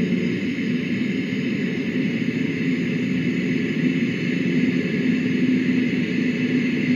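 Steady, unchanging rumbling noise with a hiss above it; no distinct event stands out.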